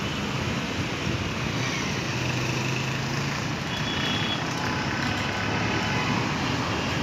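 Steady road traffic noise, with a vehicle engine hum swelling in the middle.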